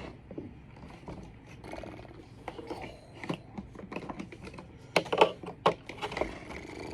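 Clicks and knocks of plastic parts on a vacuum sweeper being handled and fitted together, with a few sharper knocks about five seconds in.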